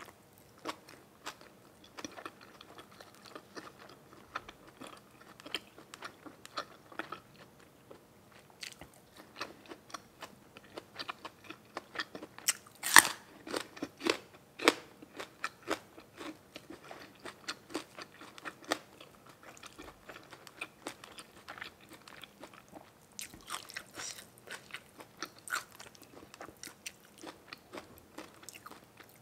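A person chewing and crunching food close to the microphone, with irregular crisp crunches and wet mouth clicks; the loudest crunch comes about halfway through.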